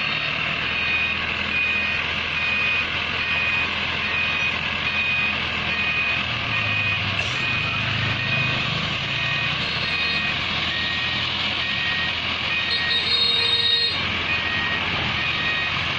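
A truck's reversing alarm beeping steadily, about two beeps a second, over the low running of its diesel engine. A brief higher-pitched sound cuts in near the end.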